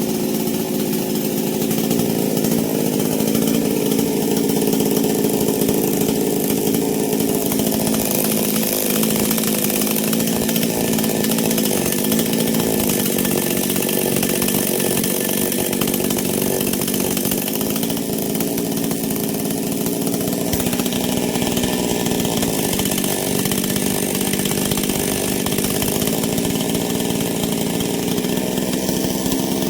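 Two-stroke chainsaw engine running steadily at a fairly constant speed, freshly rebuilt with a new cylinder block and piston.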